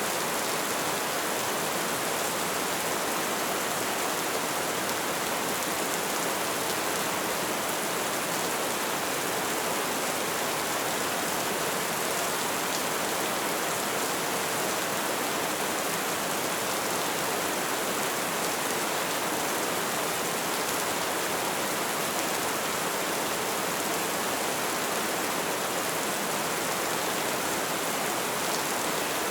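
Light rain falling as a steady, even hiss of drops.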